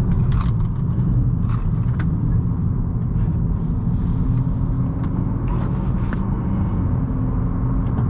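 2018 Honda Accord 1.5T Sport's turbocharged four-cylinder engine running under load, with a steady rumble of road and tyre noise. A steady engine tone holds from about three and a half seconds in.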